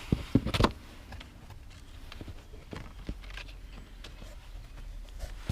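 Small objects being handled: three sharp clicks or knocks in the first second, then faint scattered ticks and rustling.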